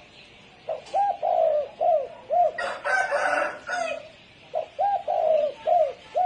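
Spotted dove cooing: two phrases of short, arched coo notes, one starting near the beginning and one near the end. A harsher sound, wider in pitch, overlaps the first phrase for about a second halfway through.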